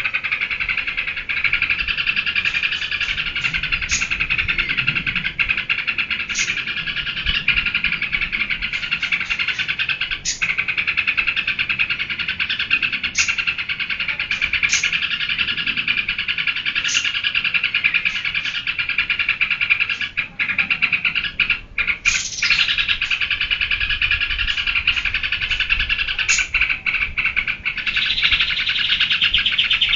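Yellow-vented bulbul (trucukan) singing in continuous rapid chatter, broken by short high notes every few seconds, with a few brief gaps about two-thirds of the way in. It is in the excited 'geberan' state.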